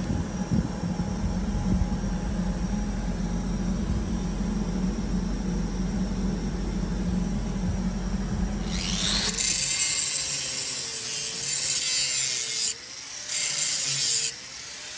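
A steady low machine hum for about nine seconds, then a loud rushing hiss that cuts out briefly twice near the end.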